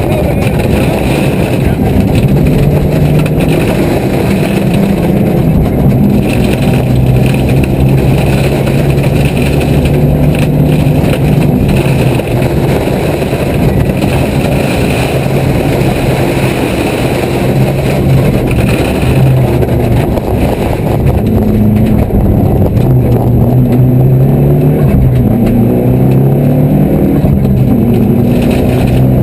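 Car engine heard from inside the cabin, its revs rising and falling in steps as it is driven through the gears, with steady road noise underneath.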